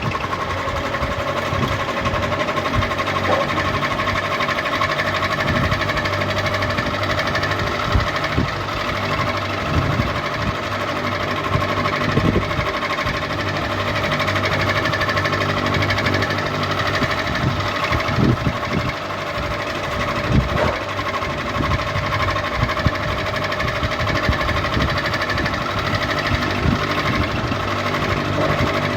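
Ceiling fan running steadily: a constant motor hum with irregular light knocks and clicks rattling through it.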